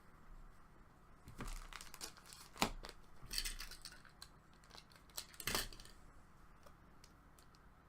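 Hockey card packaging and cards being handled: crinkling and rustling in several short bursts, with a sharp click about two and a half seconds in.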